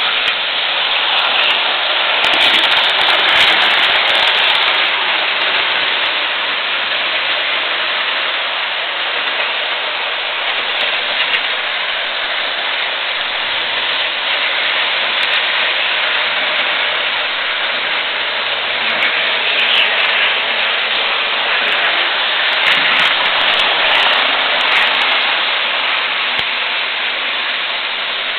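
Electric model train running steadily on its track, a continuous whirring rattle of motor and wheels on rail, with occasional faint clicks.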